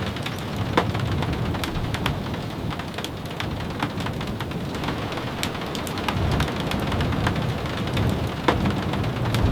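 Steady rain, with a low rumble underneath and sharp ticks and pops scattered irregularly through it.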